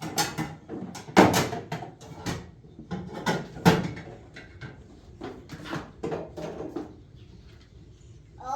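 Irregular knocks and clatter of hard objects being handled or set down, with the loudest strikes about a second in and again near four seconds.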